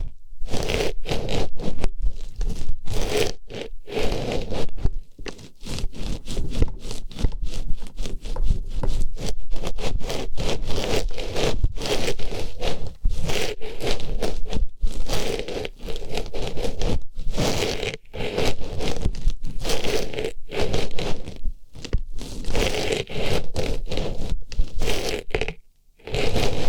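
An artificial rose pushed into and rubbed around the ear of an ASMR microphone, making a close, dense run of scraping and rustling with brief pauses, the longest near the end.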